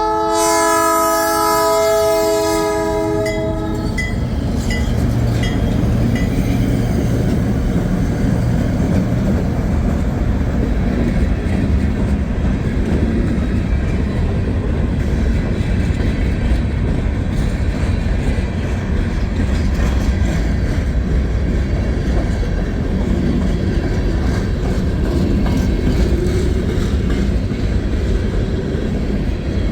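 Freight locomotive's air horn sounding a chord of several tones for the first few seconds, then the train rolling past with a steady rumble of EMD SD38 diesel engines and wheels clacking over the rail joints.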